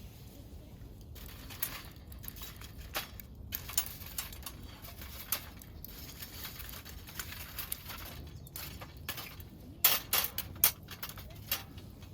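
Scattered light knocks and clinks of cookware and utensils being handled, with a quick cluster of louder clicks about ten seconds in.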